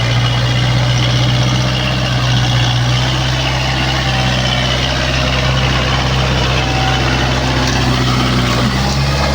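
Kubota four-wheel-drive tractor's diesel engine running steadily with a deep, even hum.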